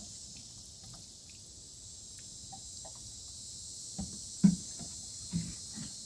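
Steady chorus of insects, crickets or similar, with a few short dull thuds about two-thirds of the way in, the second of them the loudest.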